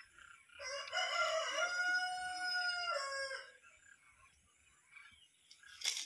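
One long, drawn-out bird call of about three seconds, held on one pitch and dropping at the end. A short sharp click comes near the end.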